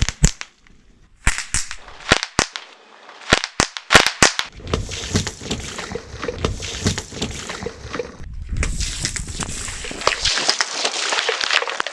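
A car tyre rolling over and crushing brittle objects: a string of sharp cracks and pops, then dense crackling and crunching over a low rumble. About ten seconds in the rumble stops, leaving a steady higher crackle.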